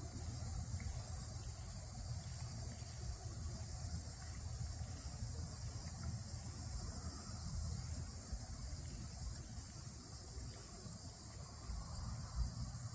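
Steady outdoor background noise: a low rumble and a continuous high hiss, with no distinct events.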